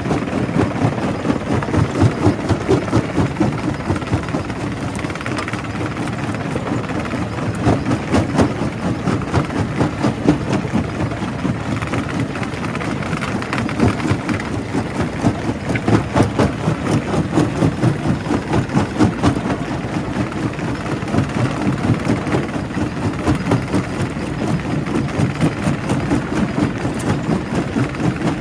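Quarry primary rock crusher at work: a steady heavy machine drone under a rapid, uneven run of knocks and cracks from stone being broken.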